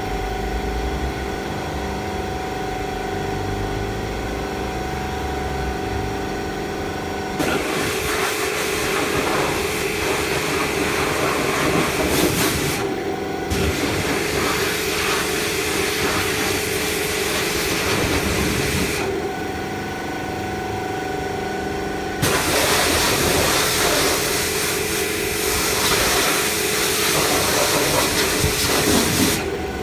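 Automatic car wash machinery running with a steady hum, while water spray hisses over the car in long spells: from about seven seconds in to about nineteen seconds, with a brief break near thirteen, then again from about twenty-two seconds until just before the end.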